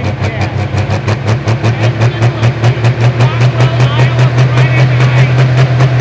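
Pro Stock pulling tractor's diesel engine running with a pulsing beat that smooths into a steady, slightly rising note as the revs build.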